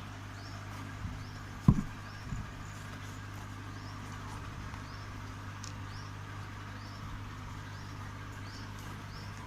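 A few light knocks, the loudest about two seconds in, over a steady low hum and faint ticking that repeats about every half second.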